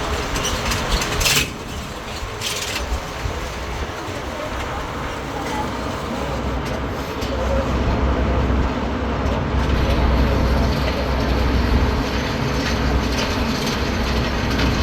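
Tourist road train on tyres running along the road: a steady engine and road rumble that grows heavier from about six seconds in, with two short hisses near the start.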